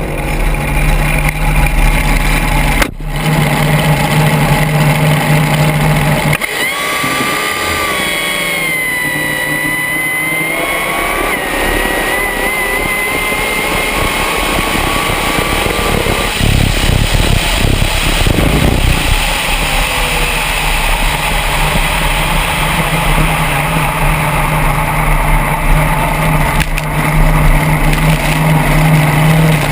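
Drag-boat engines running loud: a deep steady engine note, broken off briefly about three seconds in, then a stretch of rising, wavering engine pitch as a boat revs and pulls away, and the deep steady note again near the end.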